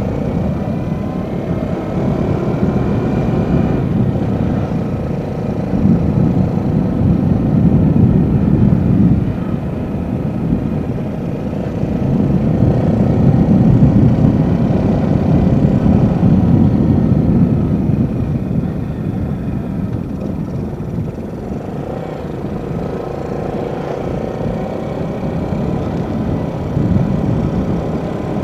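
Yamaha Jupiter Z single-cylinder four-stroke motorcycle engine running while riding, with wind noise on the microphone; the sound swells and eases several times.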